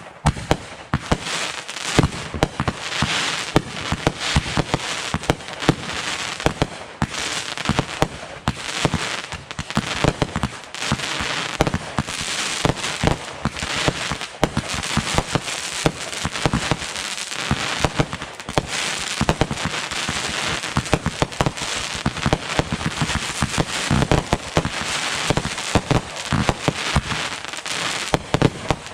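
Fireworks going off in a dense, continuous barrage of rapid pops and bangs over steady crackling, with no pauses.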